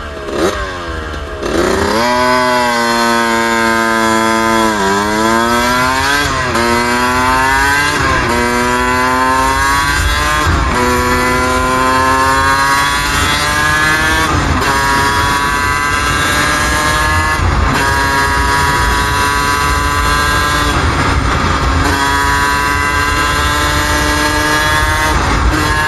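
Suzuki RM125's single-cylinder two-stroke engine under way, accelerating through the gears: its pitch climbs and drops back at each shift, about five times in the first half. After that it holds a fairly steady, slowly rising cruise.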